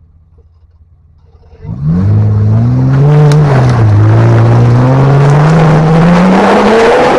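Off-road 4x4's engine revving hard under load as it climbs an obstacle, starting about a second and a half in. The pitch rises, dips briefly, then climbs steadily before easing off at the end, over a haze of tyre and ground noise.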